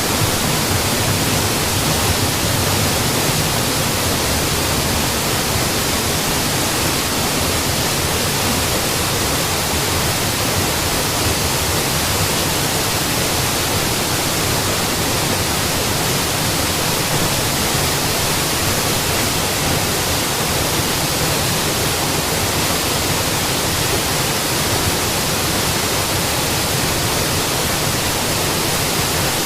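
Mountain waterfall rushing steadily, a continuous even roar of falling water.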